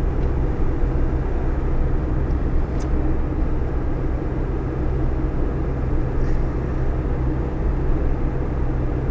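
Steady engine drone and road noise of a vehicle driving along, heard from inside the cab.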